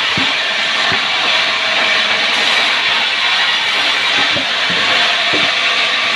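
Power wood saw running with a steady, noisy whir, with a few dull knocks near the start and several more in the second half.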